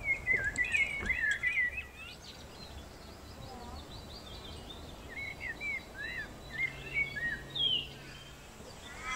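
Small birds chirping in quick notes that slide up and down in pitch: one dense bout in the first two seconds and another about six seconds in, over a low steady background.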